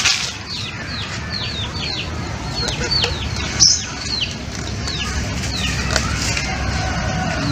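Birds cheeping nearby: a steady run of many short, high chirps, each falling in pitch, a few every second. A short sharp crackle stands out a little after halfway.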